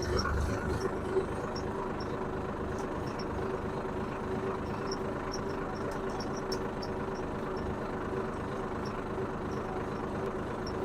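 Tractor diesel engine running steadily under load while pulling a tined row marker through a field.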